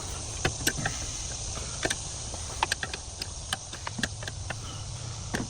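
Irregular metallic clicks and taps of hand tools working loose the brake booster's mounting nuts, over a steady high hiss and a low rumble.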